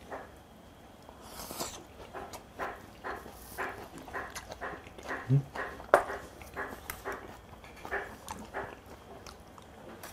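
Close-miked chewing of spicy stir-fried pork and rice: a run of wet mouth smacks and clicks, with a sharper click about six seconds in.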